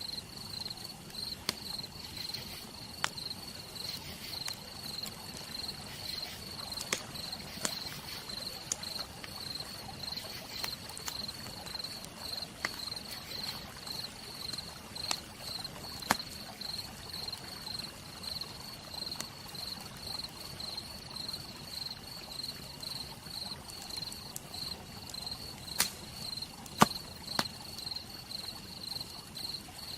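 Wood fire crackling, with scattered sharp pops; two louder pops come near the end. Under it are a soft steady hiss and a cricket's high chirp, pulsing evenly.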